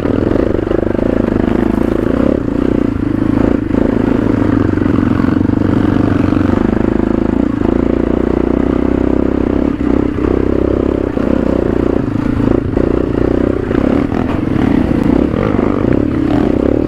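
Motorcycle engine running steadily under way, with rattling and wind noise as the bike rides a rough trail.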